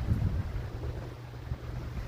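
Motorcycle engine running at a steady speed with wind noise on the microphone, and a brief louder gust of wind at the start.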